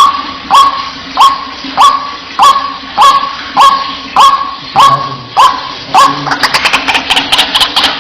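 White-breasted waterhen (ruak-ruak) calling: a loud note that rises quickly and then holds, repeated a little under twice a second. About six seconds in it breaks into a fast run of short, higher chattering notes.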